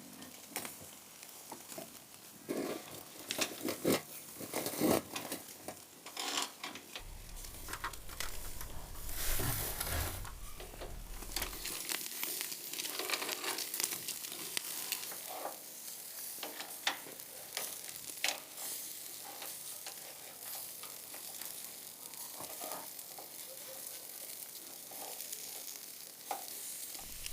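Food sizzling over a wood fire, with a steady hiss broken by many short clicks and knocks, and a low rumble for a few seconds near the middle.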